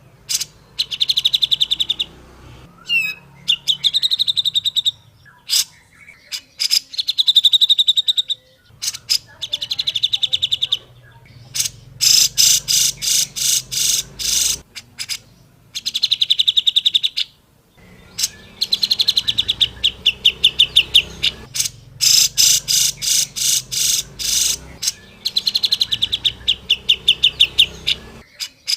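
Grey-cheeked bulbul (cucak jenggot) singing: bursts of rapid chattering notes and fast trills, repeated every couple of seconds with short pauses between them.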